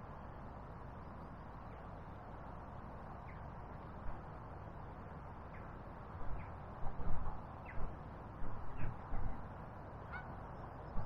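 Several short bird calls over a steady rushing background, with a cluster of low bumps in the middle.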